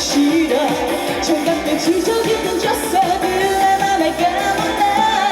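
Live pop band music with a steady beat, played through a stage sound system, with a melody line over it.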